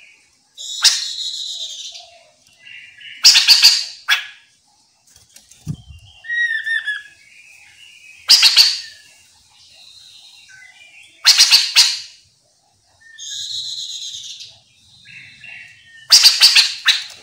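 Chestnut-capped laughingthrushes calling: loud, harsh chattering calls that come every few seconds, with softer chatter and a few short whistled notes between them.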